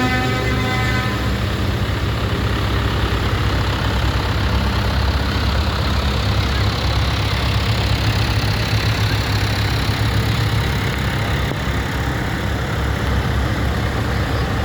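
Tractor engines running steadily as tractors parade past at low speed, with a horn sounding at the start that stops about a second in.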